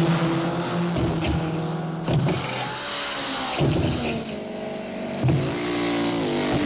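Car engines revving hard, their pitch climbing and falling. Three sharp knocks or bangs come about a second and a half apart, and after the second and third an engine revs up again.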